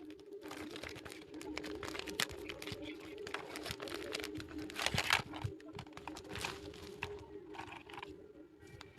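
Small plastic toy pieces and their packaging being handled: irregular light clicks, taps and crinkling, with one louder rustle about five seconds in, over a steady low hum.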